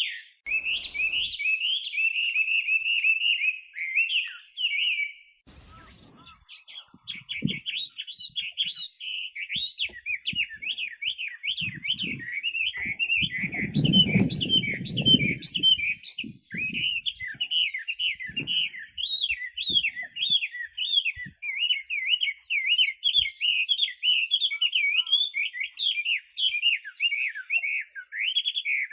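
Chinese hwamei singing a long, fast, varied run of whistled notes, with a short break about five seconds in. A muffled low rumble sits under the song for a couple of seconds midway.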